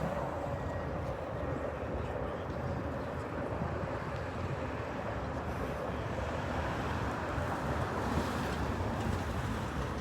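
Jet airliner engine noise at a distance: a steady rumbling noise, with a faint whine that fades out in the first couple of seconds.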